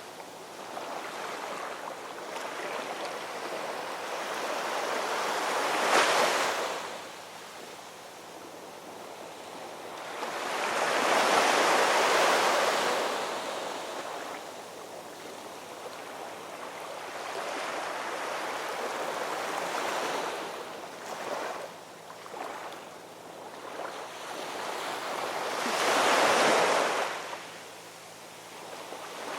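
Ocean waves breaking and washing up a shore, the surf swelling and falling away, with three bigger waves: about six seconds in, around the middle, and near the end.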